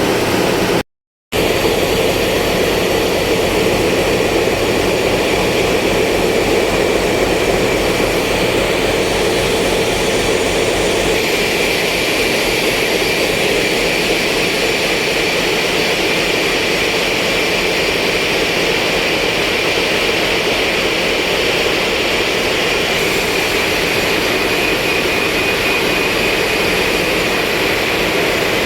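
A ship's engine running steadily under load, a continuous loud drone with a faint whine on top that grows stronger about eleven seconds in. The sound cuts out completely for a moment about a second in.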